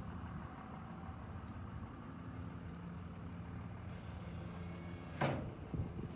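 A vehicle engine idling steadily, with one loud clunk about five seconds in and a few lighter knocks right after it.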